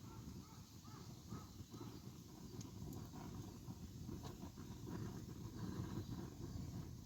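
Wood campfire burning with a low, steady rumble and a few sharp crackles. In the first two seconds a bird calls several times in quick succession.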